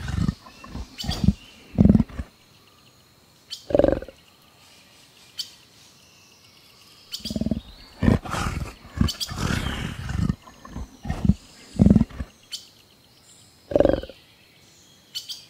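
Jaguar calling in short, repeated growls that come in groups with pauses between them; the longest run falls in the middle.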